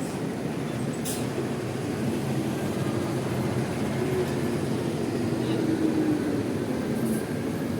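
Diesel bus engines rumbling, with a faint tone sliding slightly down in pitch in the middle.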